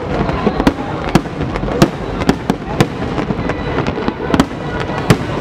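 Aerial fireworks display: shells bursting overhead with sharp bangs, about two a second in an irregular run, over a continuous low rumble.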